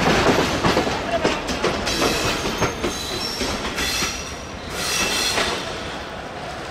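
Passenger train's coaches rolling along the rails with clattering wheels, and a high squeal from the wheels partway through.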